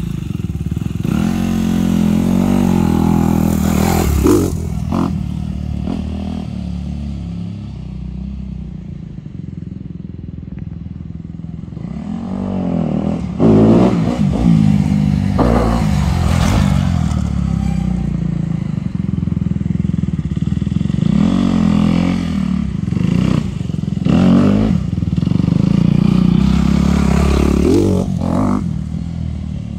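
Dirt bike engine being ridden, revving up and dropping back again and again, quieter for a stretch in the first half and loudest about halfway through.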